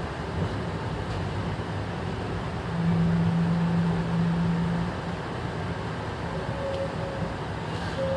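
Electric train running noise heard from the cab: a steady low rumble, with a louder steady hum that comes in about three seconds in and drops away about two seconds later.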